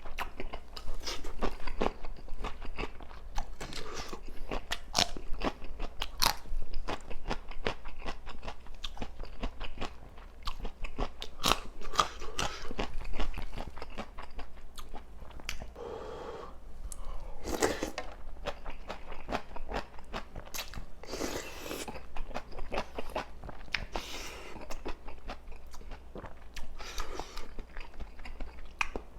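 Close-miked eating: crisp crunching bites and steady chewing of food, with a few longer wet smears along the way.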